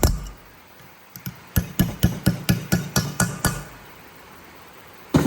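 Hammer tapping a part home on an engine, quick blows about four a second in two runs with a short pause between, then one sharper knock near the end. The ring of the blows changes once the part is seated.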